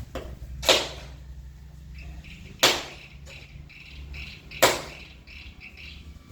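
Three sharp bangs, about two seconds apart, each dying away quickly, over a steady low hum.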